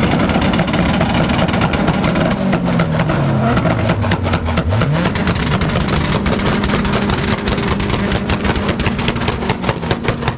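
A car engine revving loudly with a rapid crackle throughout. Its pitch sinks over the first few seconds and then climbs sharply in a quick rev about four and a half seconds in.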